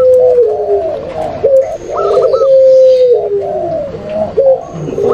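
Several doves cooing over one another: zebra doves, spotted doves and long-voiced ringneck doves (puter pelung), in a mixed call recording used to lure wild doves. Long, level coos that fall slightly at the end overlap with short, higher hooked notes in clusters, about every one and a half seconds.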